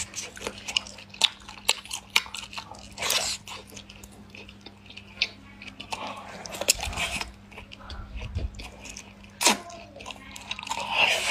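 Close-up eating sounds: biting into and chewing a whole cooked squid, with irregular sharp wet mouth clicks and a few short sucking smears. A faint steady low hum runs underneath.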